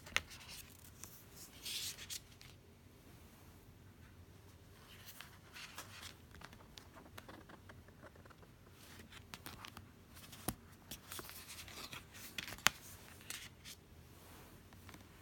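Oracle cards being handled and looked through: soft, intermittent rustling and sliding of card stock, with a few sharp little clicks as cards tap together, the clearest about ten and twelve and a half seconds in.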